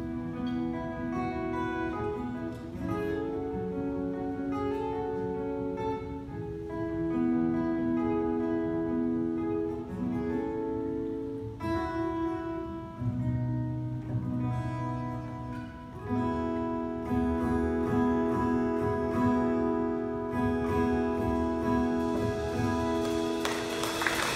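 Live instrumental passage of a country ballad: acoustic guitar strumming under held melody notes. The audience starts applauding right at the end.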